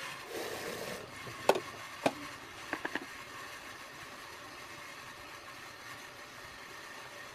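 Hands handling something on a table: a brief rustle, then two sharp knocks about half a second apart and three quick small clicks, over a steady faint background hum.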